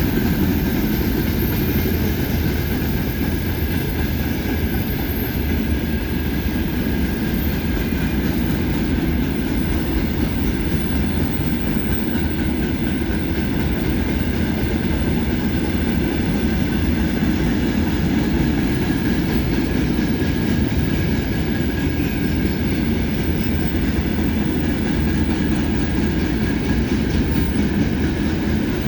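Freight train wagons rolling past steadily, their wheels clattering on the rails.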